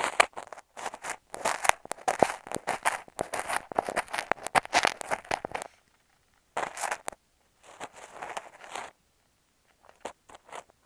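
Crunching and scraping of kinetic sand worked with an ear pick close against an earphone microphone: dense crackly strokes for about six seconds, then a pause and a few shorter bursts.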